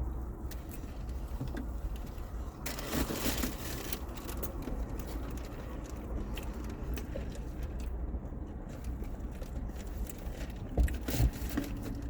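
Quiet eating sounds from tacos and burritos: chewing, small clicks and a rustle of wrapper paper about three seconds in, over a steady low hum.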